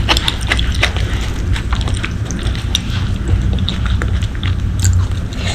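Close-miked chewing and biting of braised pork leg: an irregular stream of small clicks.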